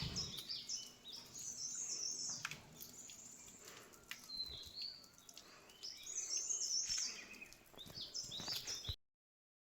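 Small birds chirping and singing in quick, high, stepped phrases over a faint outdoor hiss; the sound cuts off suddenly near the end.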